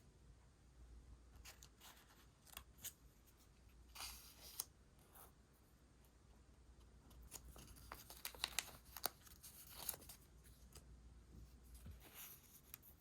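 Quiet stationery sounds from journal decorating: soft taps and short crackly rustles of paper materials being handled, busiest from about halfway through to near the end.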